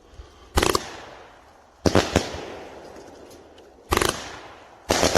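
Winda 'Starry Fall' 500-gram, 30-shot consumer firework cake firing: five sharp bangs, one about half a second in, a close pair around two seconds, one near four seconds and one near the end, each trailing off over about a second.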